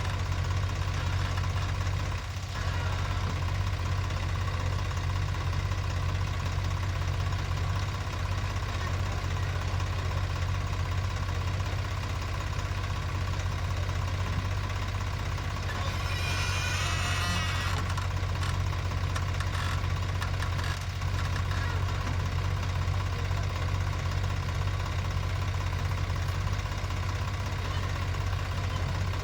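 Heavy diesel engine of earthmoving machinery running steadily at a low, even pitch, with a brief hiss about sixteen seconds in.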